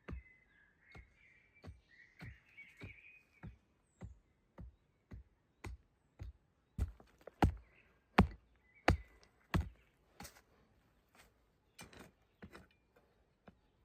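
Wood being chopped in a steady rhythm, a little under two blows a second, each blow a sharp knock with a low thud, the hardest blows a little past the middle. Birds chirp briefly near the start and again about nine seconds in.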